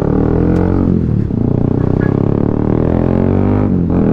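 Honda CB150R's single-cylinder engine running under way, a steady drone whose pitch dips about a second in and changes again near the end as the revs change.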